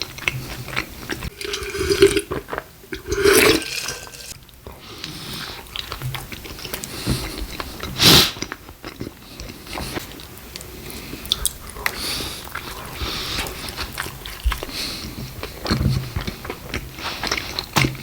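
Close-up chewing and biting of a beef burrito stack, with wet mouth smacks and clicks, and one louder burst about eight seconds in.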